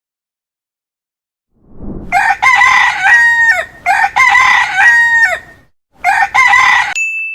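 Rooster crowing: two full cock-a-doodle-doo calls, then the start of a third near the end. A short steady electronic chime sounds at the very end.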